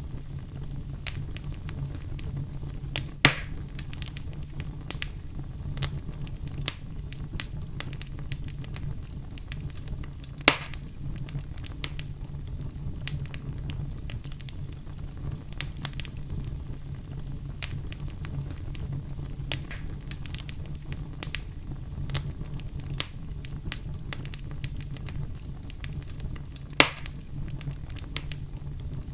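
Wood fire burning in a fireplace: a steady low rumble with frequent small crackles and three louder pops, the first about three seconds in, one near the middle, and one near the end.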